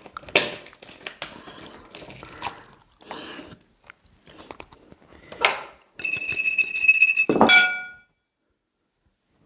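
Mouth-close eating sounds and small clinks of cutlery, then about six seconds in a steady high ringing tone lasting about two seconds that ends in a louder crash.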